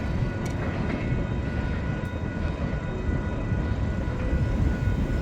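Freight train of tank cars rolling by, a steady low rumble with faint high ringing tones.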